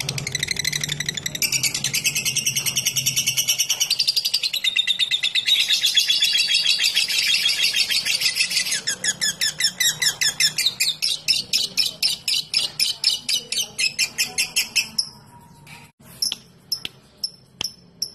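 Lovebird giving a long ngekek: a fast, high-pitched chattering trill of rapid pulses held for about fifteen seconds. It breaks off abruptly, leaving a few separate sharp ticks near the end.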